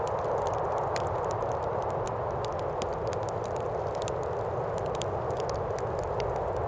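Fireplace crackling with frequent small, irregular pops over a steady wind.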